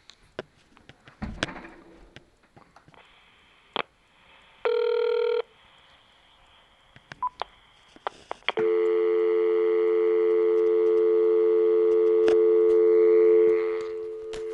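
Telephone speakerphone after the call has dropped: a short beep about five seconds in, then, a little past halfway, a steady dial tone comes on and keeps going. Small clicks of handling come before it.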